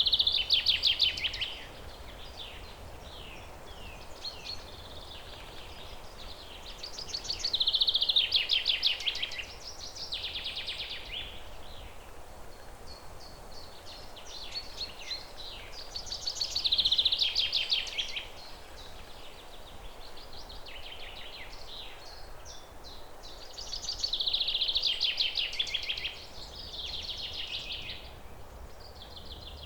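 A songbird singing a loud, rapid trilled phrase of about two seconds, repeated about every eight seconds (four times), with softer chirps between, over a steady background hiss.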